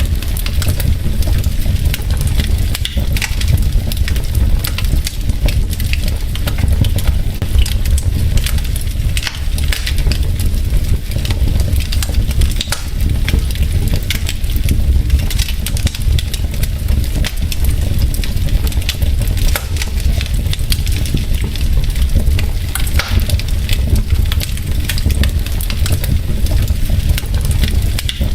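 Wood fire in a fireplace crackling: many quick, irregular pops and snaps of burning logs over a steady low rumble of the flames.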